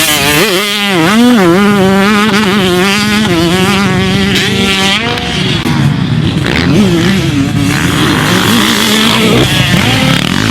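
250cc two-stroke motocross bike engine revving hard, its pitch swinging up and down with the throttle. About halfway through the note turns rougher and noisier, and a steady pitched note returns near the end.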